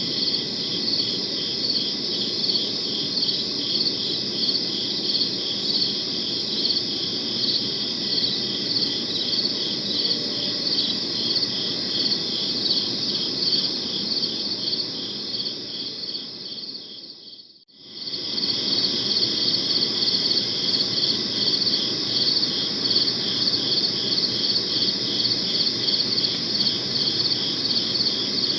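Crickets chirping in a dense, evenly pulsed trill over a low background hum. About two-thirds of the way through, the chorus fades out to a brief moment of silence, then starts again abruptly.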